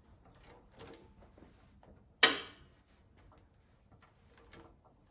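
Harbor Freight Pittsburgh motorcycle lift being raised under a motorcycle: light mechanical clicks and knocks as it is worked, with its locks being set during the lift, and one sharp metal clack about two seconds in.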